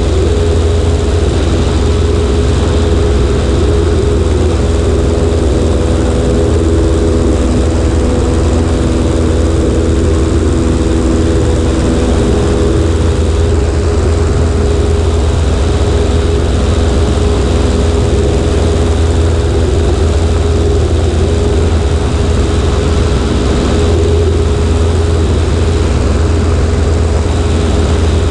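Cessna 140A's piston engine and propeller running at a steady setting, a loud even drone over a heavy low rumble, heard from the right wing.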